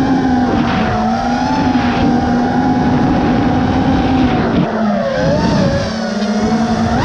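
FPV racing quadcopter's Grinder v1 brushless motors and propellers whining at a steady throttle. About five seconds in, the pitch wavers and drops, then holds lower.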